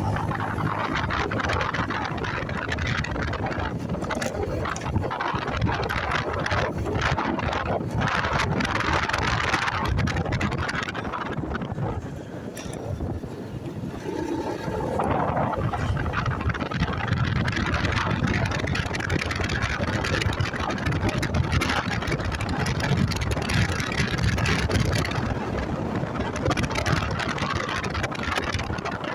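Motorcycle running on the move, with wind rushing over the microphone; the noise drops for a couple of seconds about halfway through, then returns.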